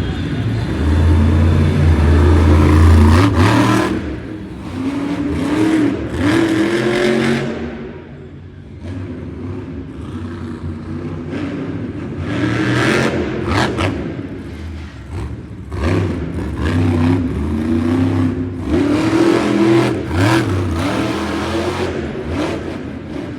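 Monster truck engine revving hard again and again, its pitch rising and falling, with several heavy thumps along the way.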